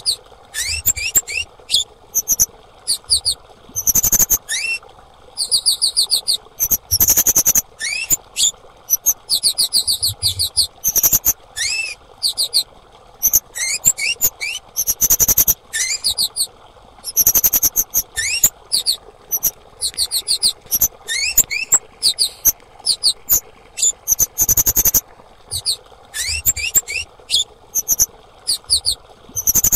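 Female orange-headed thrush (kemade) calling over and over: quick bursts of high, thin chirping notes and short rising whistles, with a few harsh, noisy bursts among them.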